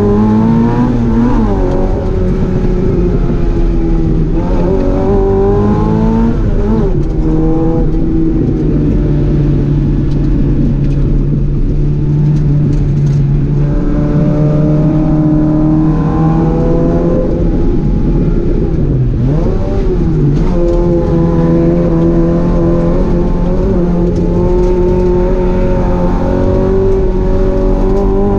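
Classic Morris Mini's BMC A-series four-cylinder engine heard inside the cabin, driven hard around a track. Its pitch climbs under acceleration and drops sharply with gear changes and corners several times, and it holds a steady drone in between.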